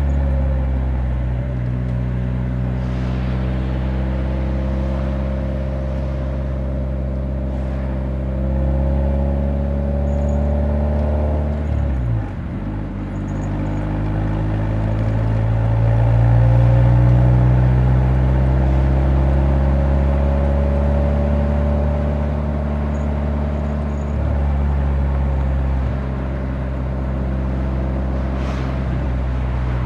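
Exhaust note of a Nissan 180SX's SR20DE four-cylinder under way, a steady low drone whose pitch slowly climbs with engine speed, dips briefly about twelve seconds in, then climbs again and eases off.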